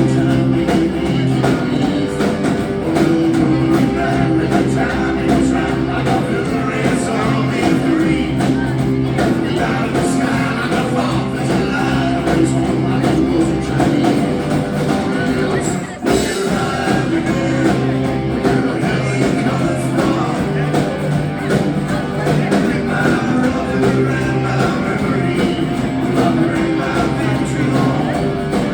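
Live rock band playing, with guitar and a steady bass line, captured loud from the audience. The level dips briefly about halfway through.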